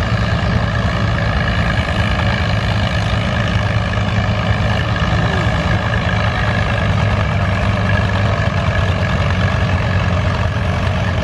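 A large engine idling: a low, even drone that holds steady with no revving.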